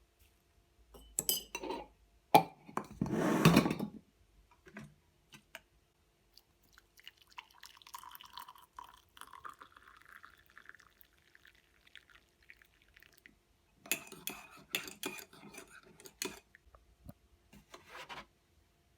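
Household clatter of dishes and glass clinking, with a stretch of a few seconds in the middle where liquid runs and rises slightly in pitch.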